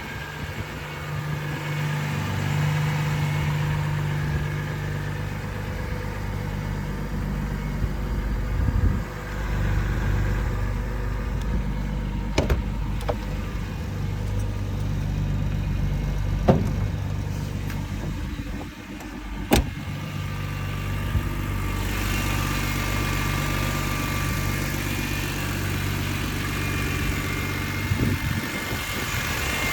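BMW S54 3.2-litre straight-six in an E30 idling steadily while warming up after a cold start. A few short sharp clicks or knocks sound about halfway through.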